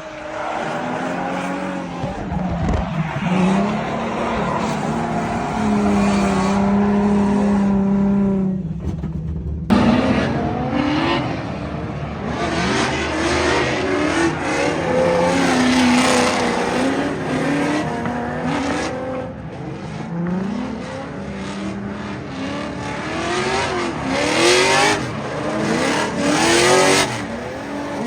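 Drift car's engine revving hard, its pitch repeatedly climbing and dropping as the throttle is worked, over tyre noise. About ten seconds in the sound breaks off abruptly and picks up again.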